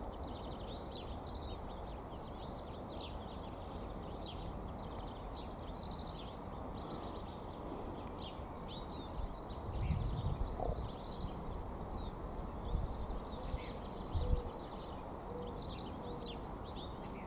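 Several songbirds chirping and calling, many short high notes and trills. Low rumbling bumps on the microphone come about ten seconds in and again a few seconds later.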